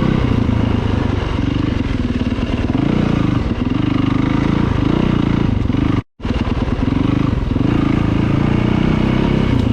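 Off-road dirt bike engine running under way, its pitch rising and falling as the throttle opens and closes. The sound cuts out completely for a moment about six seconds in.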